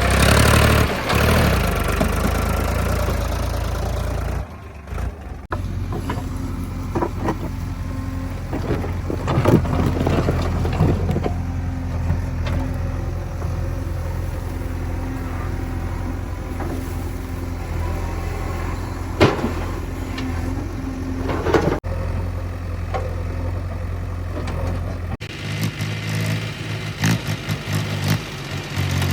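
Heavy diesel engine running steadily with a low rumble, with a few sharp knocks around 10 and 19 seconds in. The sound changes abruptly about 5, 22 and 25 seconds in.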